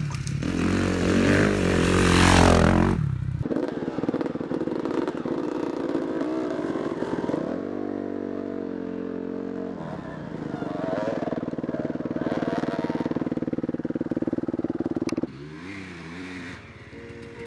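Dirt bike engine running under throttle on a trail, its pitch rising and falling as the rider opens and closes the throttle. It is loudest in a hard surge over the first few seconds and drops off suddenly near the end.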